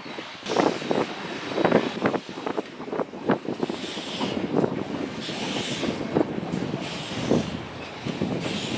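Western Pacific 165, an Alco 0-6-0 steam locomotive, working, with irregular knocks and clanks and two bursts of steam hiss about four and five and a half seconds in.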